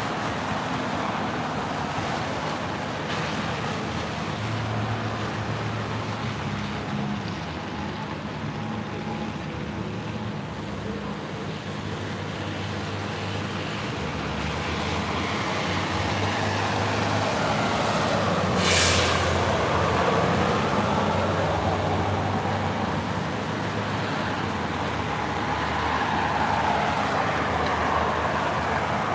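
Motor vehicle running on a road: a steady engine hum under road noise, with one short sharp sound about two-thirds of the way through.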